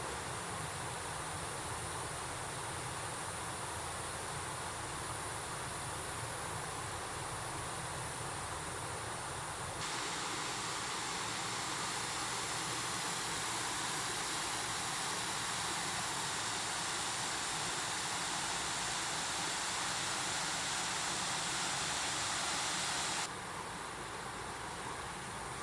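Mountain stream water rushing steadily. It turns abruptly louder and brighter about ten seconds in, then drops back near the end.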